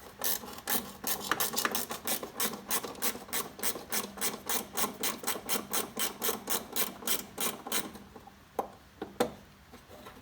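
A hand ratchet or ratcheting tool working a fastener on a tractor's dash, making an even run of clicks about four a second for some eight seconds, then two single clicks near the end.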